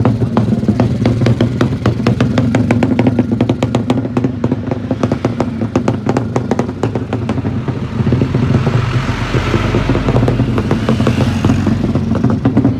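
Motorcycle engine running steadily with a rapid crackle, and a rushing noise that swells and fades from about eight to eleven seconds in.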